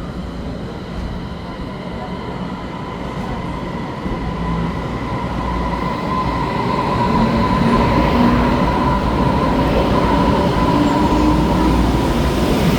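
Taiwan Railway electric multiple-unit train running on the track, growing louder from about halfway. A steady whine sounds throughout, and the motor tones climb in pitch as it picks up speed.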